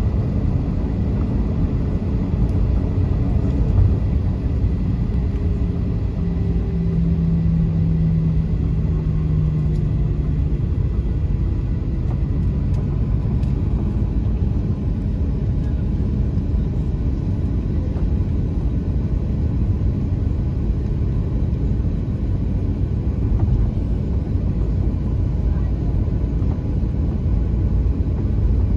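Steady low cabin rumble inside a Boeing 737-800 airliner, with a low hum that comes in for a few seconds about a quarter of the way through and slides slightly lower in pitch.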